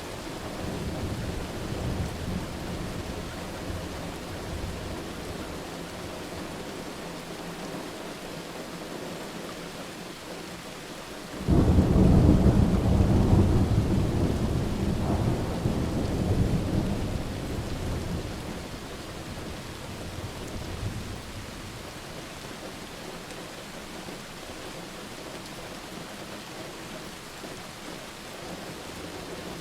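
Steady rain with a thunderclap that breaks in suddenly about a third of the way through and rolls away over several seconds; a fainter low rumble of thunder sounds early on.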